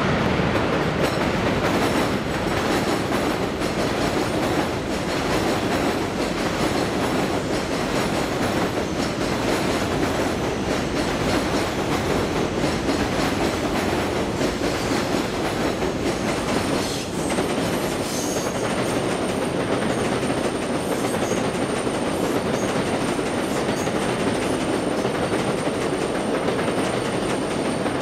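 Elevated subway train running on the steel el structure overhead: a loud, steady noise of train wheels on the track that lasts throughout, with a thin high whine coming in about two-thirds of the way through.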